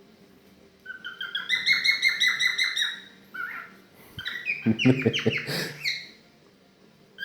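Cockatiel chirping and warbling in quick runs of high calls, first from about a second in and again in a louder, denser burst about halfway through.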